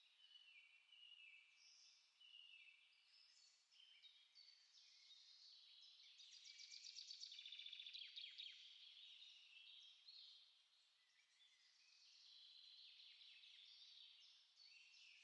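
Several small songbirds singing and chirping over one another, quietly, with a fast rattling trill a little past the middle that is the loudest part.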